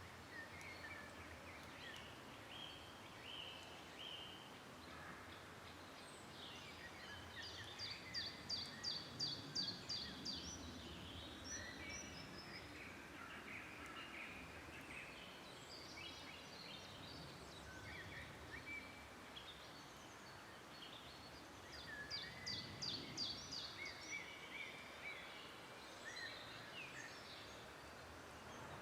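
Several songbirds singing in a forest over a faint background hiss. One bird's loud song of quick, evenly repeated notes comes twice, about eight seconds in and again about twenty-two seconds in.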